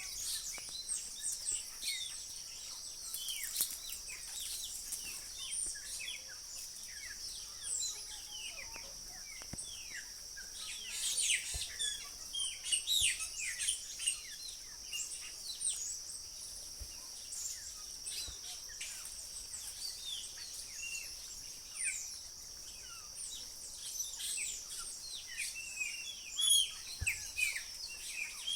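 Many birds chirping at once: a dense chorus of short, high, falling calls that thickens in bursts, over a steady high-pitched drone.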